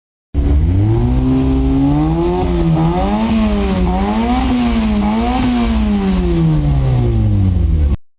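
A car engine revved up and down over and over, its pitch climbing and dropping about once a second over a steady low rumble. The sound starts abruptly and is cut off abruptly near the end.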